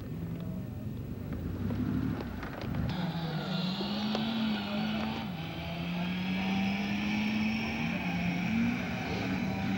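A car engine running at low speed, its pitch stepping up and down a little as the revs change, with a higher steady hum joining about three seconds in.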